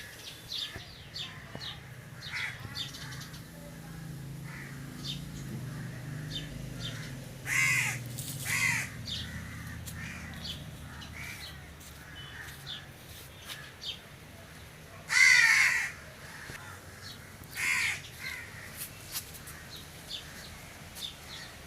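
Crows cawing: a series of harsh caws, with the loudest calls coming in pairs partway through and again later on.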